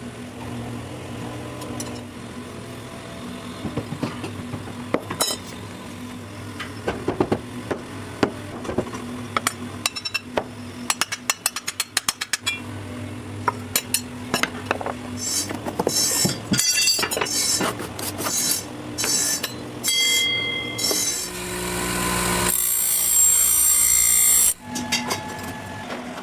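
Workshop tool sounds: a steady low hum with scattered clinks and knocks, and a quick run of ticks about halfway through. A loud hiss lasts a couple of seconds near the end and cuts off suddenly.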